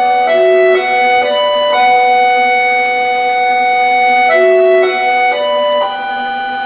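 Concert accordion playing sustained, steady chords over a held low note. Quick chord changes about every half second are followed by one long held chord of about two and a half seconds, then another run of quick changes ending on a held chord.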